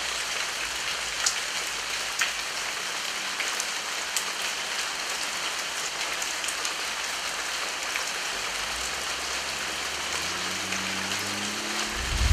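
Heavy rain falling as a steady hiss, with single drops tapping out now and then. A faint low hum comes in near the end, and a heavy low thud hits right at the very end.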